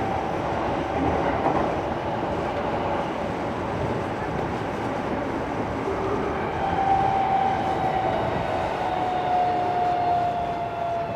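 Tokyo Metro 16000 series subway train running through a tunnel, heard from inside the car: a steady rumble of wheels on rail. About halfway through, a motor whine sets in and slowly falls in pitch as the train begins slowing for the next station.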